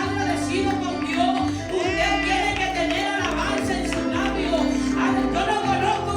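Spanish-language Pentecostal praise chorus: singing with Latin-style band accompaniment, guitar and bass, at a steady level.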